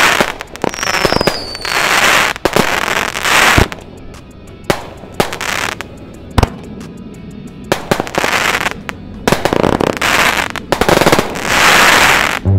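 Consumer aerial fireworks from a Zed-BQ Box sampler, cakes and artillery shells, going off in a rapid series of sharp bangs with second-long spells of crackle between them. A whistle falls in pitch about a second in.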